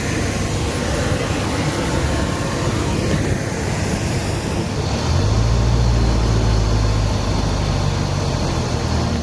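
A vehicle engine running amid steady rushing noise, with a low engine drone that grows louder about five seconds in.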